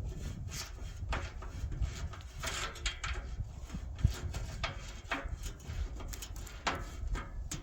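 Irregular metallic clicks, knocks and scrapes of a wrench working a bolt loose on an engine, over a low background rumble.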